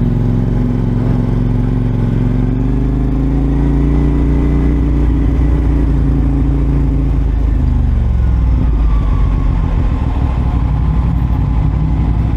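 CFMoto 450SR's parallel-twin engine running while under way: the engine note climbs a little over the first few seconds, holds steady, then drops as the revs fall about eight seconds in.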